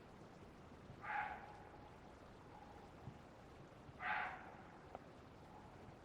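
Water deer calling twice, two short barks about three seconds apart, over a faint steady hiss.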